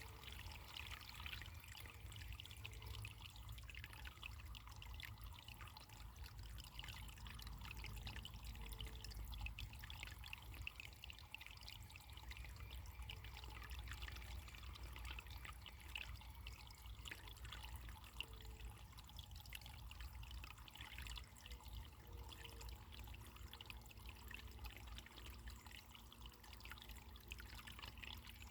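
Running water trickling and splashing steadily, quietly, with a low rumble underneath.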